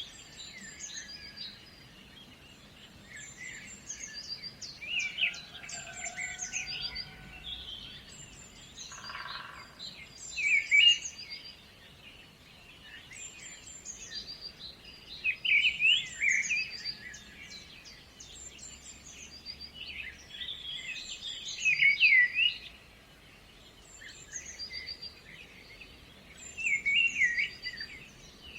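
Songbirds chirping and trilling in short repeated phrases, with a few louder bursts, over a faint steady background hum.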